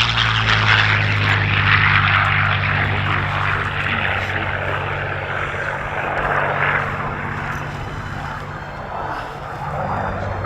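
Curtiss P-40N Warhawk's Allison V-12 engine running at power during a low pass, with a steady low drone under the rush of the propeller. The sound slowly fades as the fighter draws away, then swells a little near the end.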